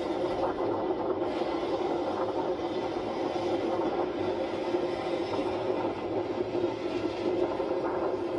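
Steady running noise of a moving vehicle: an even rumble with a constant low hum.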